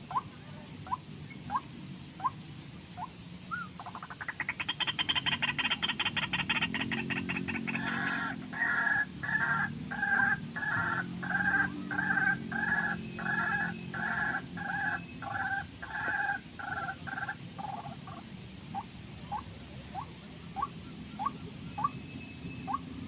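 Bird calls: a run of short rising chirps, then a fast buzzy trill for about three seconds, then a long series of evenly repeated two-tone croaking notes, about one and a half a second, after which the short rising chirps return. A faint steady high whine runs underneath.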